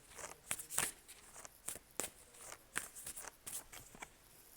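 Oracle cards being handled between readings: a run of light, irregular card clicks and slaps, several a second, stopping near the end.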